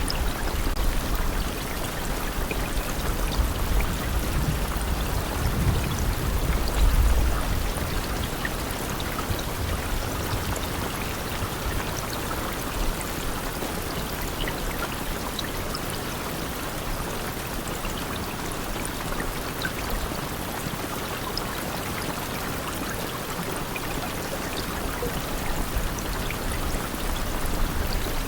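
Steady rain falling, a dense even hiss with scattered individual drop ticks. A low rumble swells and fades in the first third, loudest about seven seconds in, and rises again near the end.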